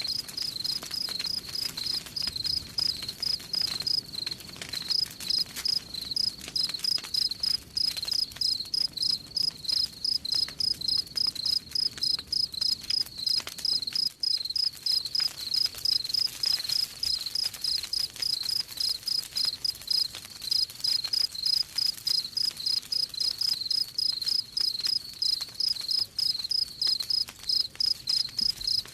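A cricket chirping in a fast, even rhythm, several chirps a second, over a wood fire crackling with faint scattered pops.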